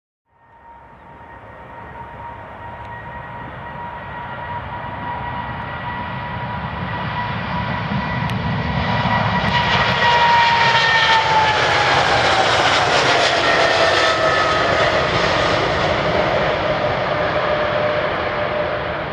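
Boeing 777F cargo jet's twin GE90 turbofans at takeoff power, the roar growing louder as the aircraft approaches. About halfway through it passes, and the engine whine drops in pitch as it moves away.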